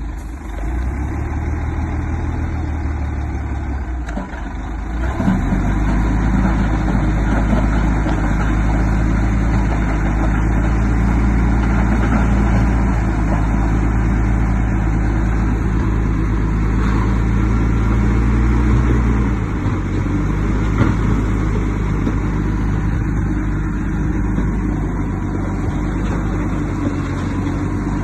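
Heavy diesel engine of earthmoving machinery running steadily under load; it picks up about five seconds in and eases back near twenty seconds.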